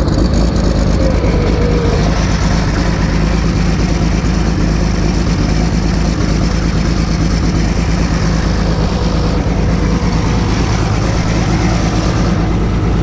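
Diesel engine of a piece of logging equipment running steadily, freshly started cold after a reluctant start.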